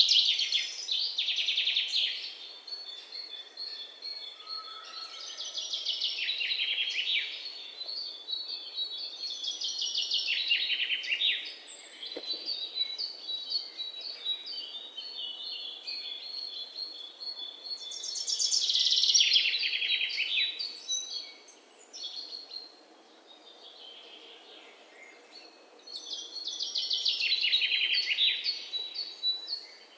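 Songbirds singing: a loud song of rapid notes run together into a falling trill, about two seconds long and repeated every few seconds, with softer chirps from other birds in between.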